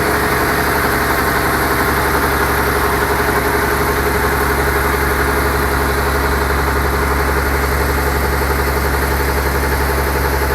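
Caterpillar 250 hp diesel engine running steadily, driving a slurry pump under working load.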